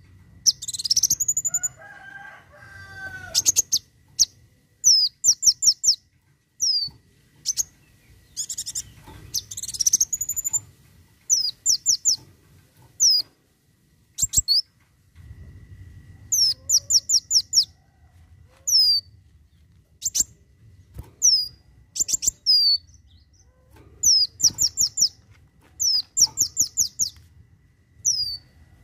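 Kolibri wulung sunbird singing: quick clusters of four or five short, high, falling notes, repeated every second or two, broken by a few longer rising sweeps.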